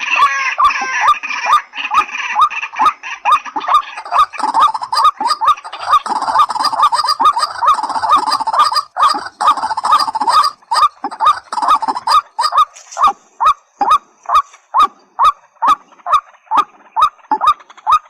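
Recorded calls of white-breasted waterhen and watercock: a long run of short, repeated honking notes, about two to three a second, with a higher warbling in the first part that drops out, leaving the notes more widely spaced.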